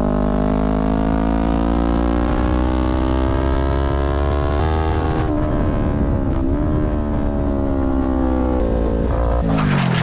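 Motorcycle engine running at a steady speed, its pitch sinking slowly, then dropping away near the end as the bike slows.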